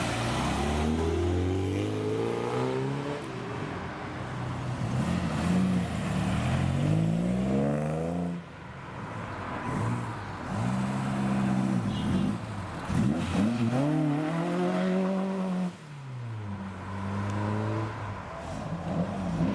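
Classic Ford cars accelerating away, their engines revving up in repeated rising sweeps that drop back between gears.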